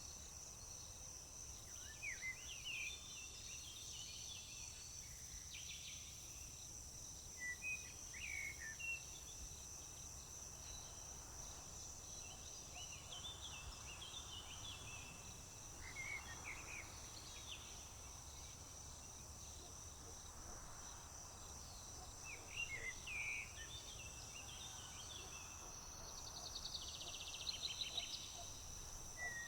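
Rural summer field ambience: a steady high-pitched insect trill runs throughout, with scattered short bird calls and chirps every few seconds. Near the end a bird gives a fast series of rapid notes. A faint low rumble sits underneath.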